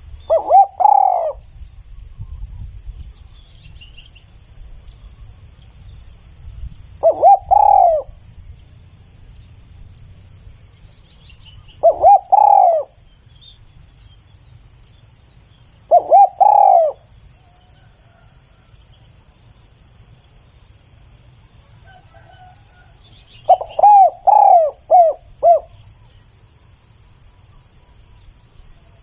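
Spotted dove cooing: short phrases of two or three curved coos repeated every four to five seconds, with a longer run of about five coos near the end. Insects trill steadily and high in the background.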